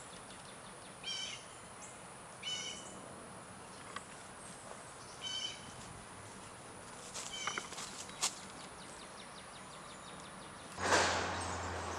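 Birds calling outdoors under trees: four short high calls spaced a few seconds apart over a quiet background. Near the end a louder steady hiss with a low hum sets in.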